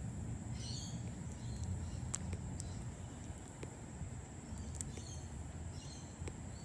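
Bat chewing a banana slice: scattered small sharp clicks and smacks over a low background rumble, with two brief high chirps, one about half a second in and one near the end.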